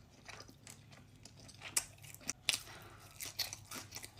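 A person chewing sushi close to the microphone: faint, scattered wet smacks and clicks of the mouth.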